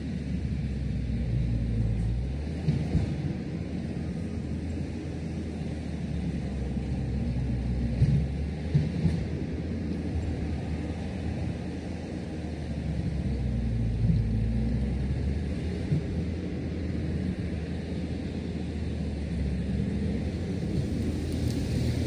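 Heavy construction machinery engine running at work, its low rumble swelling and easing with the load, with a few sharp knocks.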